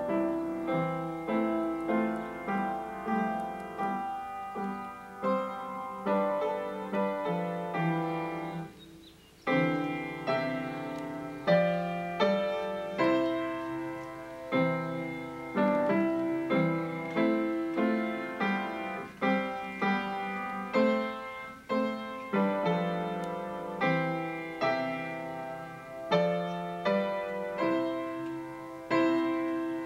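Solo piano music with a gentle, even pulse of notes and chords, pausing briefly about nine seconds in.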